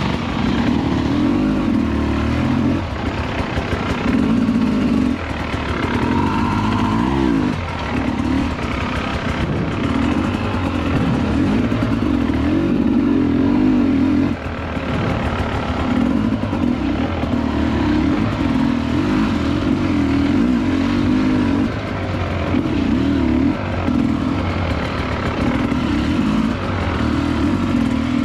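Dirt bike engine under way on a trail, the throttle opened and eased again and again, so the pitch keeps rising and falling with short lulls between surges.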